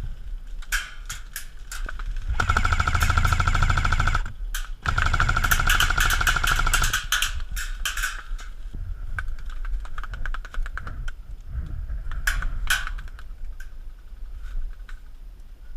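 Airsoft electric rifle firing two long full-auto bursts: a rapid stream of plastic-BB shots over the whine of the gearbox motor. Scattered single shots and clicks follow, with two sharper cracks late on.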